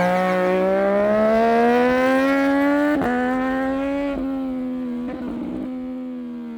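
Triumph Street Triple 765 RS's inline three-cylinder engine pulling hard, its pitch rising steadily. Two quick upshifts come about three and four seconds in. After them the engine holds a steadier note and fades a little near the end.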